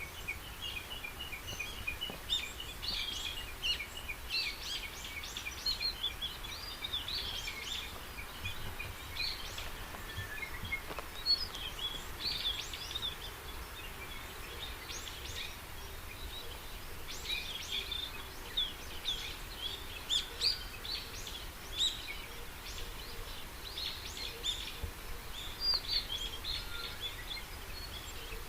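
Several wild birds calling and singing at once: many short chirps and whistles, with a quick series of evenly spaced notes in the first few seconds. A steady low rumble runs underneath.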